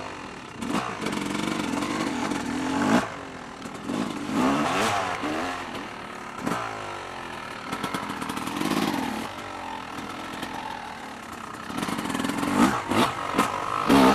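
Dirt bike engines revving up and down, the pitch rising and falling repeatedly as the bikes ride over the trail.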